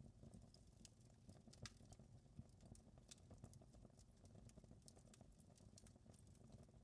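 Wood fire crackling faintly: irregular small snaps and pops over a low, steady rumble.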